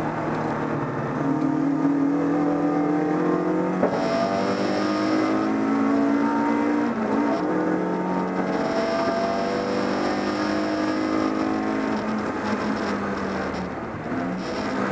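Inside a BMW 318is race car: its four-cylinder engine running hard at racing speed, the pitch climbing and breaking off at gear changes about four and seven seconds in. Near the end it eases off.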